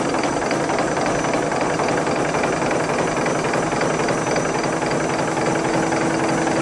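Maxforce magnet engine prototype, a machine with permanent-magnet pistons and drum driving pulleys, running with a fast, steady mechanical clatter and a faint constant hum.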